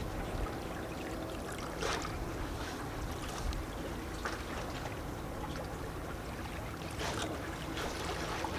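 Small sea waves lapping and gurgling against rocks along the shore, a steady wash broken by a few brief splashes, the clearest about two seconds in and again near the end.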